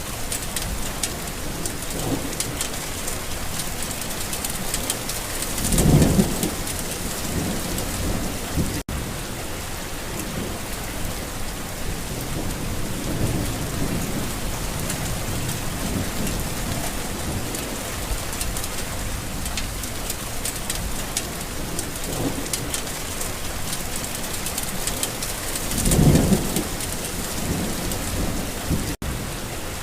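Steady heavy rain falling, with low rolling thunder rumbles; the loudest swells about six seconds in and again near the end. The sound cuts out for an instant twice.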